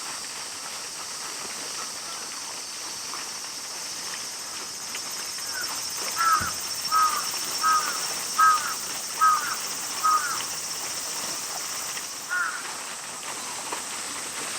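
A bird calling over and over, about seven short harsh calls a little under a second apart that begin about six seconds in, then one more call a couple of seconds later, over a steady high-pitched hiss of outdoor background noise.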